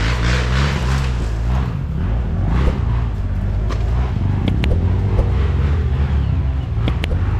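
Single-cylinder dirt bike engine running under way, its pitch rising and falling with the throttle. A few sharp ticks come about halfway through and near the end.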